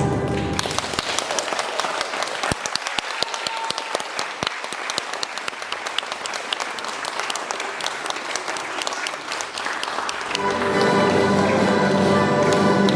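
Audience clapping for about ten seconds after orchestral music stops; near the end the next piece of orchestral music starts up over the tail of the clapping.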